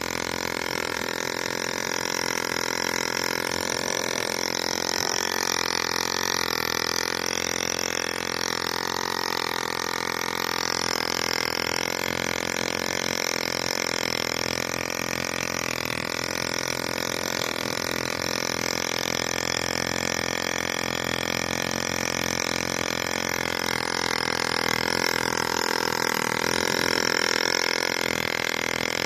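Small Red Dog model gasoline engine running steadily at an even speed, firing rapidly.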